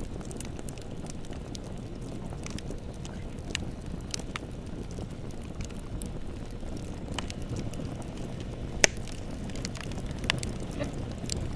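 Bonfire burning with a steady low rush and scattered sharp crackles and pops, the loudest pop a little before the nine-second mark.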